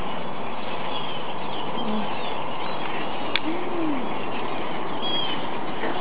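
Wild birds calling: short high chirps now and then, and a low note that rises and falls about three and a half seconds in, over a steady hiss. A single sharp click comes just before the low note.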